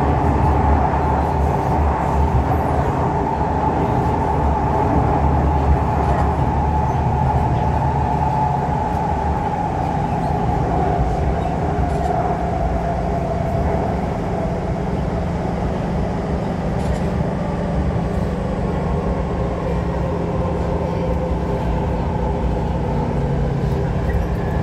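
Siemens C651 metro train running, heard from inside the car: a steady rumble from the wheels and track, with a whine that falls slowly in pitch during the first half.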